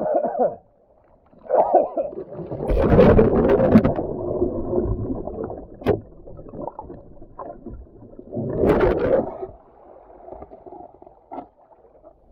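Water splashing and rushing around a kayak in fast-moving water, in uneven surges, the loudest about three and nine seconds in, with a single sharp knock about six seconds in.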